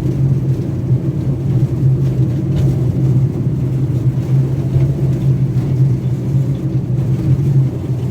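Engine of a tourist road train running steadily while it travels, a low, even drone.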